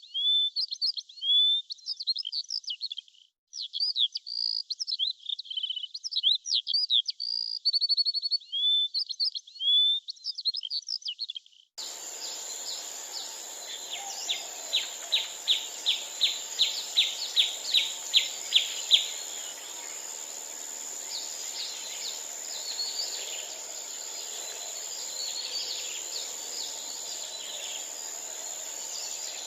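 Small birds chirping and tweeting in quick, repeated calls. About twelve seconds in, the sound changes to a different outdoor recording with a background hiss and a steady high buzz, over which a bird gives a fast trill of about four notes a second and then scattered chirps.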